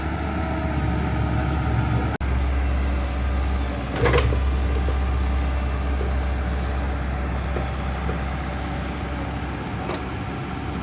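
Backhoe engine running steadily with a low rumble, with a brief sharp knock about four seconds in.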